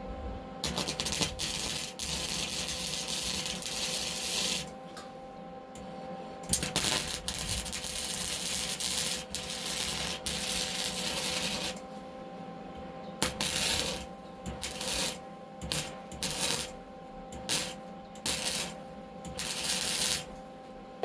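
Gasless flux-core MIG welding arc crackling: two longer welds of about four and five seconds, then a series of short tack welds about a second each. A steady hum runs underneath throughout.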